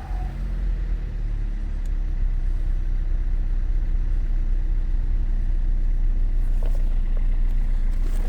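Opel A16XER 1.6-litre four-cylinder petrol engine idling steadily after a rev has died away, tested for running condition.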